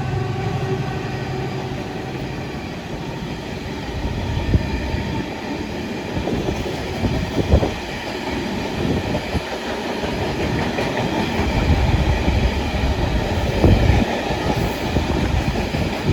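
Freight train wagons rolling past at speed, with a continuous rumble and occasional sharp knocks and clatter from the wheels.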